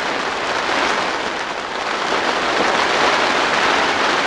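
Really heavy hail falling on the plastic sheeting of a polytunnel: a dense, steady rattle.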